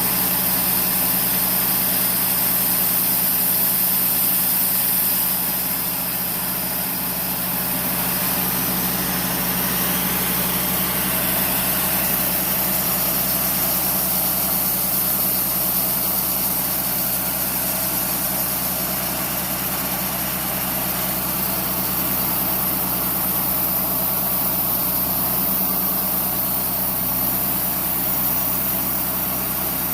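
Wood-Mizer LT35 portable band sawmill running steadily, its engine holding an even pitch, easing slightly about five or six seconds in.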